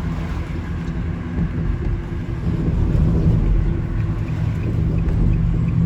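A van's engine and road noise heard from inside the cab while driving, a steady low rumble. Faint, regular ticking about twice a second starts near the end.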